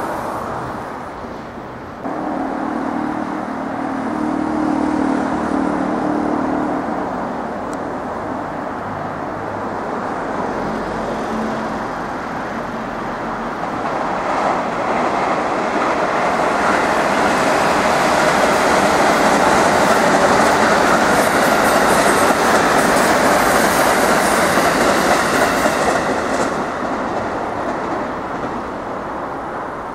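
JR West 221 and 223 series electric commuter trains running past: a steady rumble of wheels on rail that builds up, is loudest through the middle and eases off near the end. A low steady hum sounds for a few seconds near the start.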